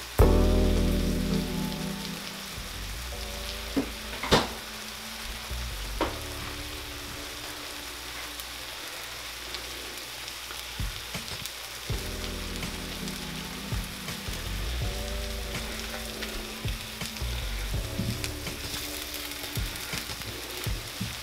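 Stuffed chicken breasts frying in an oiled cast iron skillet: a steady sizzling hiss, with a few sharp pops and clicks, under background music.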